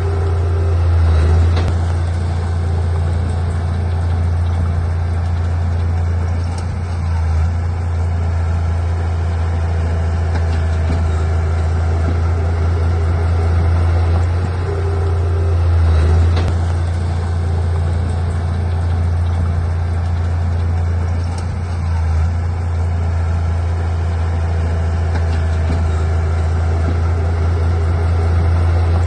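Heavy diesel engine of earthmoving machinery running steadily with a deep, low drone, swelling briefly a few times as it takes more load.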